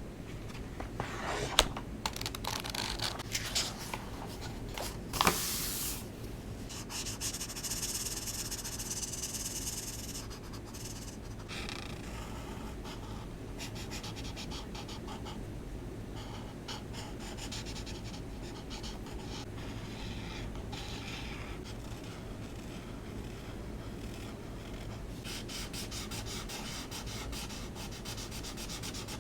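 Alcohol marker nibs stroking and rubbing across coloring-book paper in a steady run of strokes, with two sharp clicks early on.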